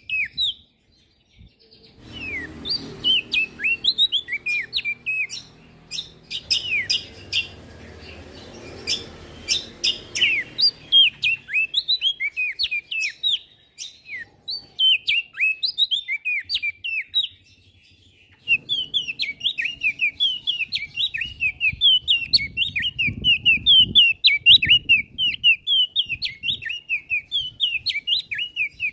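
Prenjak daun singing a fast, continuous run of short, high, chirping notes. It stops briefly about a second in, then carries on without a break.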